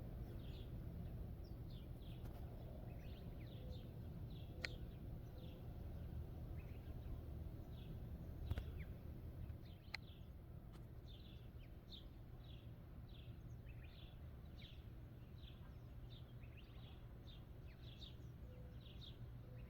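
A small bird chirping over and over in short, falling notes, about two a second, over a steady low background rumble, with a few sharp clicks.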